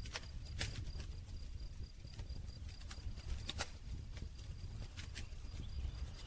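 Campfire crackling: irregular sharp pops and snaps of burning wood over a low steady rumble of the fire.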